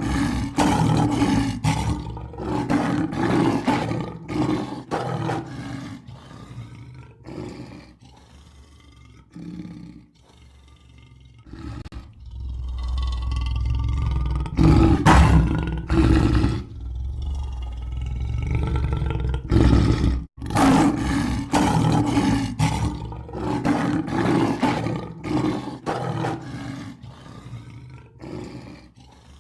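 Lion roaring, with a run of short, repeated grunting roars, then a longer, deeper rumbling roar from about 12 to 20 seconds in, then more short grunts.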